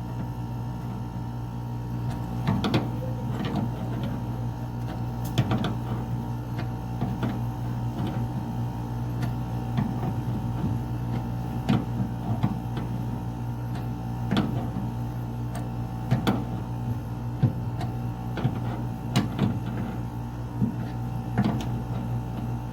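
Air conditioner unit humming steadily while it runs, with scattered short metallic clicks and knocks of a wrench tightening the refrigerant service-port fitting, wrapped in Teflon tape to stop a gas leak.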